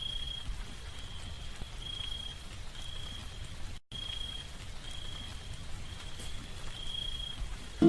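Baby birds peeping: a short high peep repeating about once a second over a steady hiss. The sound cuts out for a moment just under four seconds in.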